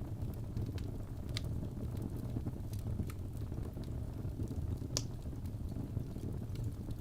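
Wood fire in a fireplace burning with a steady low rumble and scattered crackles and pops, the loudest pop about five seconds in.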